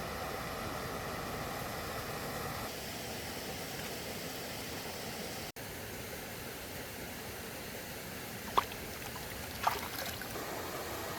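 Steady trickling, running water, with two short sharp sounds near the end.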